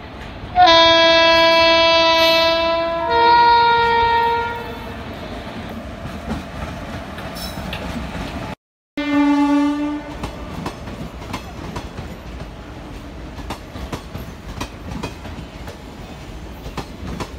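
Indian Railways WAP-4 electric locomotive's horn sounding a long loud chord, then changing to a second, different chord for about a second and a half. After a brief dropout in the sound, the horn gives one more short blast, and then the passenger coaches roll past with a rumble and the clickety-clack of wheels over rail joints.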